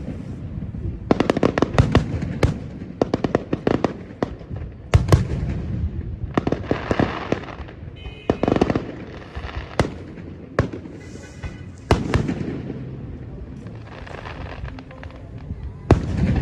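Fireworks display going off: repeated sharp bangs of aerial shells, some in quick clusters with crackling between them, the heaviest volleys about one to two seconds in and about five seconds in.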